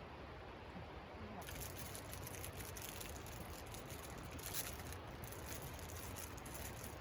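Food or liquid cooking over the campfire: a crackling, bubbling hiss that starts abruptly about a second and a half in, with many small pops.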